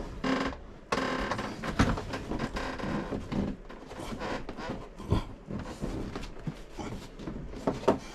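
Hand-work on toilet plumbing fittings: irregular small clicks, knocks and scrapes as nuts and connectors are fumbled and tightened in a cramped space.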